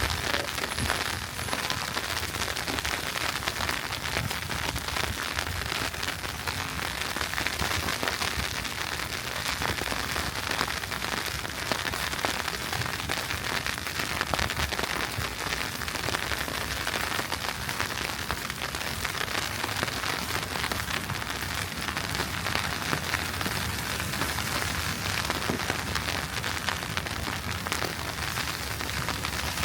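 Wet snow falling in a steady, dense crackle of many fine ticks, like light rain on hard surfaces, at a temperature right around freezing.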